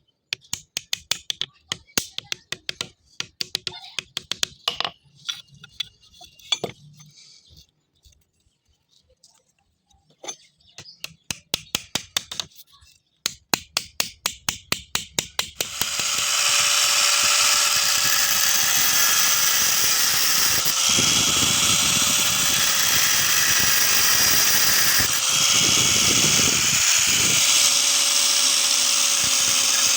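A rapid run of sharp light taps, pausing briefly, then an electric power drill starts about halfway through and runs steadily with a constant whine, its sound dipping briefly twice.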